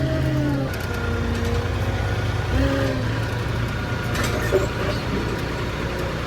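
Truck engine running with a steady low hum.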